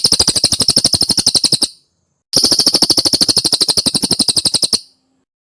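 Cililin singing: two long, rapid, evenly repeated chattering trills of about two and a half seconds each, separated by a short pause.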